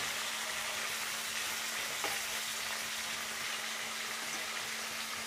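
Marinated chicken pieces sizzling in hot mustard oil in a kadhai as they are turned with a steel spatula. There is a steady frying hiss, with a light clink about two seconds in.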